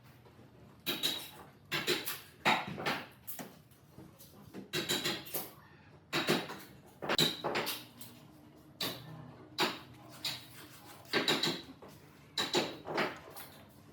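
A hand tool working wood in short, repeated strokes, roughly one a second at an uneven pace.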